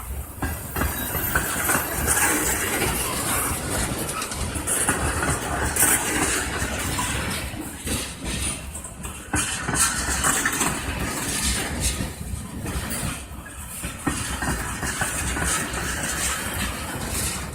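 Freight train rolling past, steel wheels rumbling and clattering over the rails with an uneven, continuous rush of noise.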